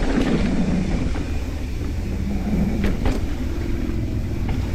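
Steady low rumble of wind buffeting the microphone, with a few sharp clicks, two of them close together about three seconds in.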